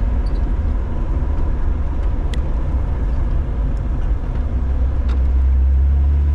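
2006 Jeep Wrangler running, a steady low rumble that swells louder about five seconds in.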